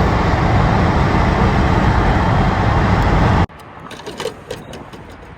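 Loud, steady car engine and road noise from a car on the move, cutting off abruptly about three and a half seconds in. What follows is a much quieter background with a few faint clicks.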